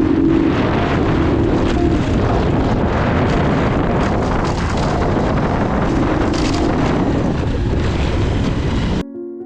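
Motorcycle running on the move, with heavy wind buffeting the microphone; the noise cuts off suddenly near the end and soft piano music takes over.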